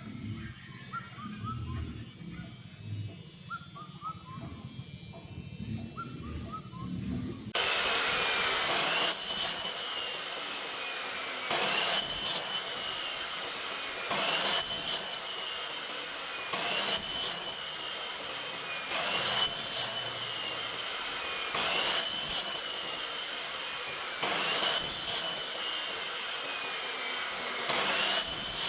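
Faint bird chirps over a low rumble, then about seven seconds in a power tool starts up on aluminium. It runs loud and gritty, surging in regular strokes about every two and a half seconds, with a ringing whine between strokes.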